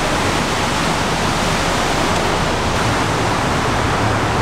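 Steady rush of a heavy downpour during a thunderstorm.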